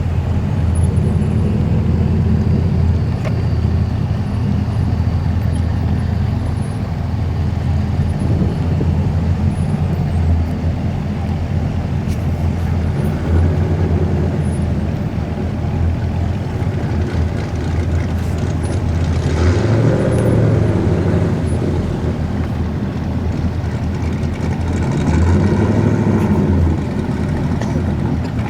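Car engines running in a steady low rumble, with an engine note swelling briefly about twenty seconds in and again near the end.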